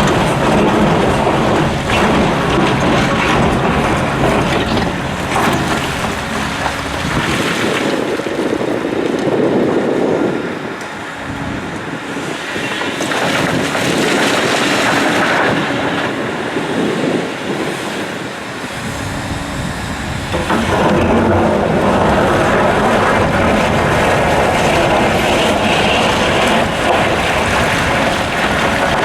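Hitachi Zaxis 890LCR excavator working to load a CAT 775D quarry truck, a loud, steady rumble of heavy machinery. The deep part of the sound drops away for about ten seconds in the middle, then comes back at full strength.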